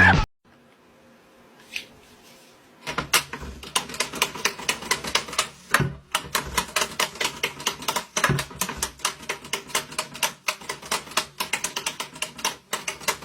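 A quick, uneven run of sharp clicks or taps, about five a second, starting about three seconds in after a quiet stretch with a single click.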